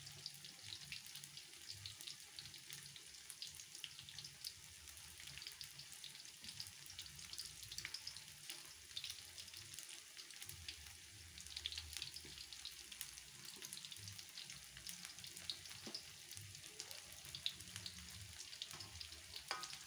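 Corn fritters deep-frying in hot oil in a wok: a steady, faint sizzle full of fine crackles.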